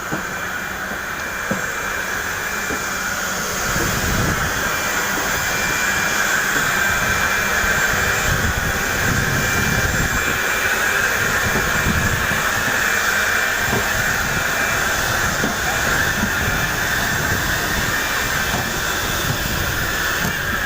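Airliner engine noise heard inside the passenger cabin: a loud, steady roar with a low rumble beneath, swelling a little over the first few seconds and then holding level.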